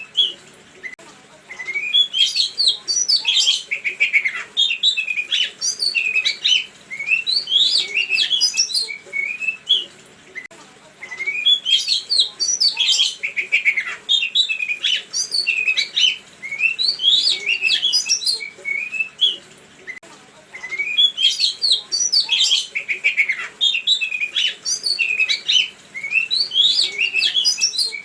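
A songbird singing a rapid, varied high chirping song in phrases of about eight seconds, repeating after short pauses. It is a looped masteran recording, used to make caged songbirds answer.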